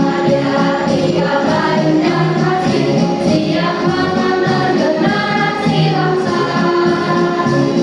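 A choir singing in harmony with sustained, overlapping voices, over light percussion ticking about twice a second.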